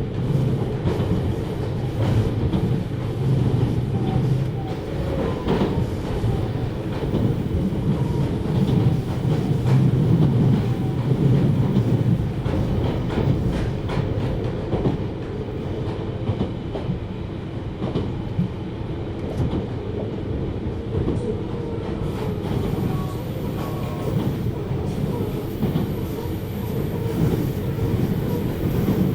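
JR Hokkaido 733 series electric multiple unit running at speed: a steady rumble of the train under way, with wheels clicking over rail joints.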